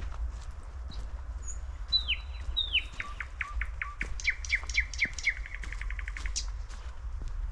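A songbird sings a series of clear whistled notes, each sliding downward. The notes start slowly about two seconds in, speed up into a quick trill and stop a couple of seconds later. Faint high chips from other small birds and a low rumble run underneath.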